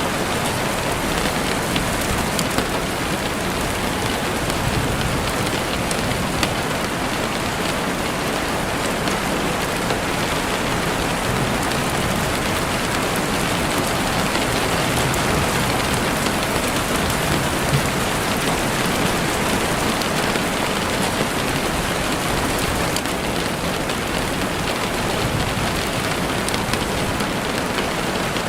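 Steady rain falling through trees, with scattered short crackles and pops from a campfire.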